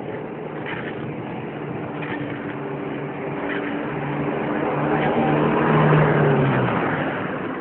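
Motor vehicle engine approaching and passing close by, getting louder to a peak about six seconds in and then fading away.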